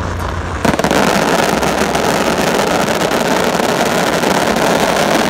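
Fireworks barrage: a dense, continuous crackle of many rapid small bursts that starts suddenly about a second in.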